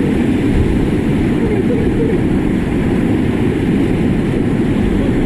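Loud, steady roar of rushing river whitewater, heaviest in the low end, heard from a raft running the rapids, with faint voices in the background.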